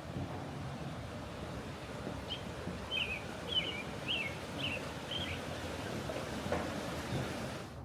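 A bird calling a run of about six short, wavering chirps over a steady background rumble of outdoor noise.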